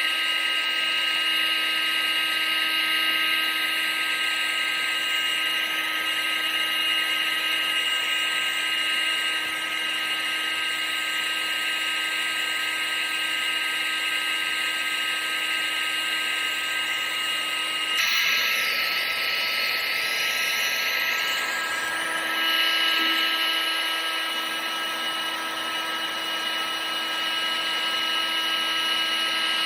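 Vacuum cleaner running steadily: a motor whine of several constant tones over a rush of air. A little past halfway the whine shifts slightly in pitch and a brief high rising sweep passes before it steadies again.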